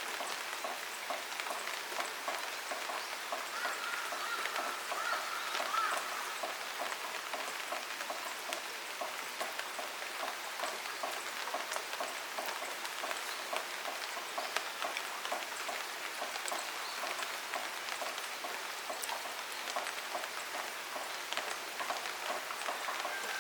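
Steady rain falling on a surface, a continuous patter with many small drip ticks.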